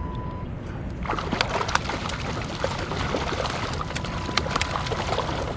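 Water splashing and sloshing beside a kayak, with many sharp splashes starting about a second in, as a hooked coho salmon thrashes at the surface near the boat.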